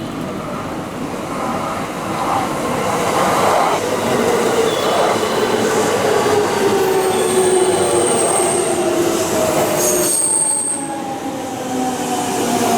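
Electric commuter train running past the platform, its motor whine falling slowly in pitch as it slows, with brief high-pitched wheel or brake squeals about two-thirds of the way through.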